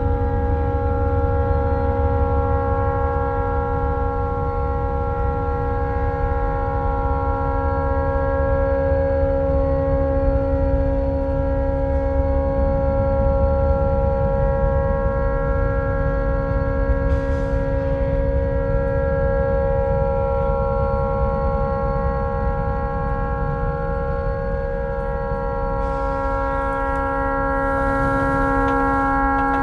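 Tugboat's stuck horn sounding on without a break, a loud, steady tone of several pitches held at once, over a low rumble. The horn had malfunctioned and could not be shut off.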